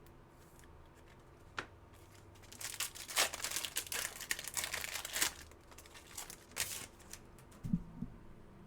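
A trading-card pack's foil wrapper crinkling as it is torn open and handled, in a dense run of crackles through the middle, with a low thump near the end.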